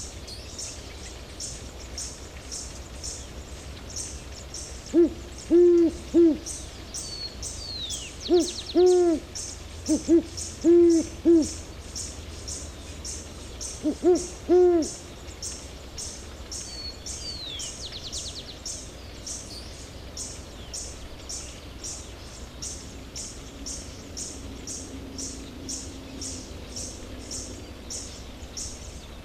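Great horned owl (Bubo virginianus) hooting: deep hoots in four short runs of two to four hoots, starting about five seconds in and ending about fifteen seconds in. A high, regular pulsing chirp, about two a second, runs behind it, and a brief high falling call comes twice.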